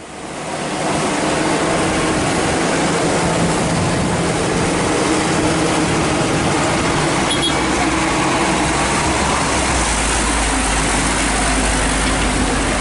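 Vehicle engine running with steady road noise; a deeper low rumble comes in about ten seconds in.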